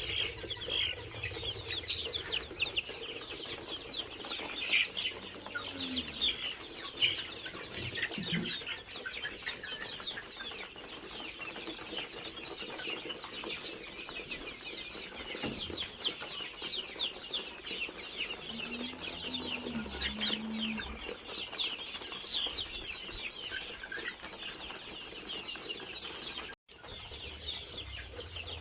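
A flock of chickens in a small poultry shed calling continuously, with many overlapping short, high cheeping calls.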